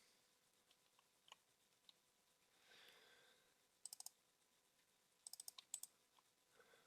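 Near silence broken by faint computer clicks: three quick clicks about four seconds in, then a short cluster a second later.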